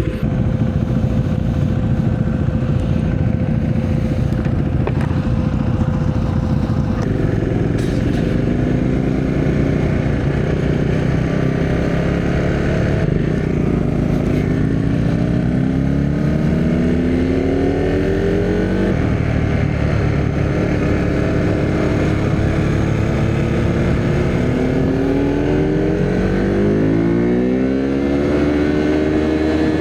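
Husqvarna Svartpilen 401's single-cylinder engine pulling away and accelerating through the gears, its pitch rising, dropping at a gear change about two-thirds of the way in, then rising again near the end.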